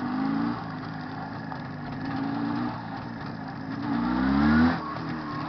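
Jawa 634 two-stroke twin motorcycle engine pulling under throttle in short rises in pitch, the longest and loudest about four seconds in, then dropping off suddenly as the throttle closes. The engine is being run in.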